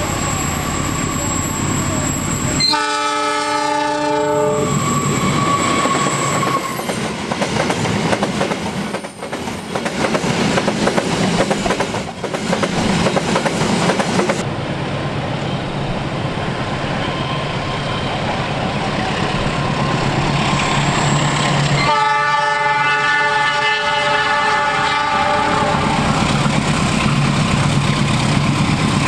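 A freight train's diesel locomotive sounds its horn twice, once a few seconds in and again about 22 seconds in, each blast about two seconds long. Between the blasts the train rumbles and clatters steadily as it runs by.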